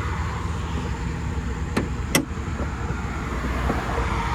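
Vehicle engine running steadily at idle, a low rumble, with two short sharp clicks a little under half a second apart about two seconds in.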